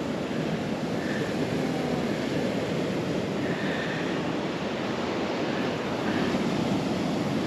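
Mediterranean surf washing onto a sandy beach, a steady rush of breaking waves.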